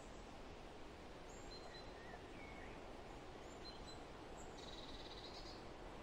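Faint outdoor background hiss with a few brief, high bird chirps and small rising-and-falling notes, then a short buzzy bird trill about five seconds in.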